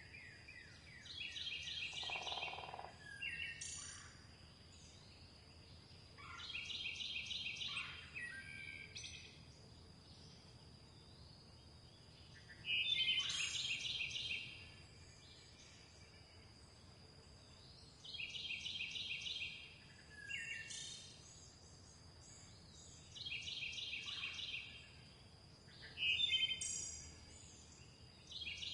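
Songbird singing outdoors: a short phrase of rapid repeated notes, about a second and a half long, recurs roughly every five seconds, with other brief bird calls between and a thin steady high tone underneath.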